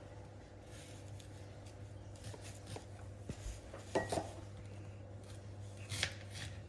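Knife slicing fresh ginger root on a cutting board: a few faint taps, then two louder cuts about four and six seconds in, over a low steady hum.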